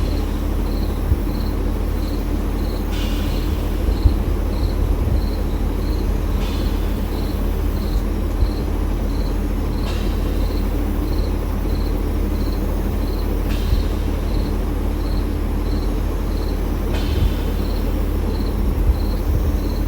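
Insects, cricket-like, calling: a short high chirp repeated evenly about twice a second, with a fainter rasping call every three to four seconds, over a steady low rumble.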